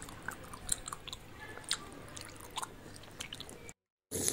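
A person chewing soft durian flesh, with scattered small wet mouth clicks and smacks. The sound breaks off into a short dead silence near the end.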